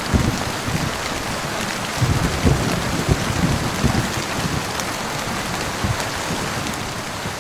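Heavy rain falling steadily, with low rumbling that comes and goes underneath, swelling about two seconds in.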